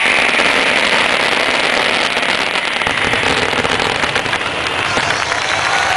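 Fireworks finale barrage: a dense, rapid crackle of many small firework reports running together into one continuous rattle.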